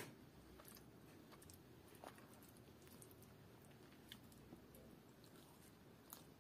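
Faint chewing of rice and chicken curry eaten by hand, with a scatter of soft, short clicks and squishes as fingers mix rice and gravy on the plate.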